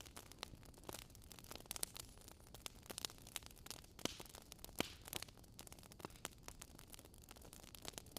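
Wood fire crackling: irregular sharp pops and snaps, several a second, over a faint steady noise, with a couple of louder pops about four and five seconds in.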